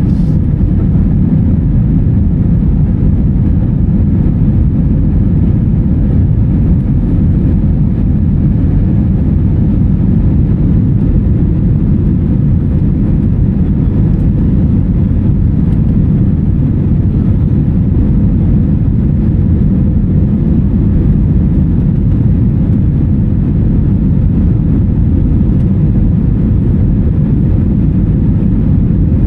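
Steady low drone of a jet airliner's engines and airflow, heard from inside the passenger cabin.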